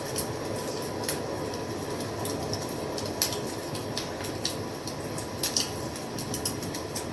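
Wood fire crackling: irregular sharp pops and snaps over a steady low rumble of burning, with the loudest pop about three seconds in and a small cluster of pops about five and a half seconds in.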